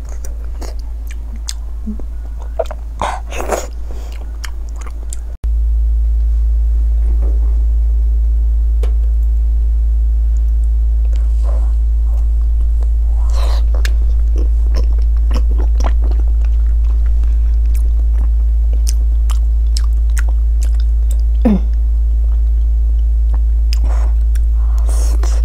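Close-up chewing, biting and wet lip smacks of a person eating braised pork belly, over a steady low hum. The hum drops out for an instant about five seconds in and comes back louder.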